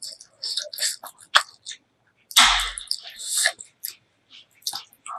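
Close-miked eating sounds of pork leg curry with rice: wet chewing and mouth smacks in quick, irregular clicks, with a louder burst about two and a half seconds in.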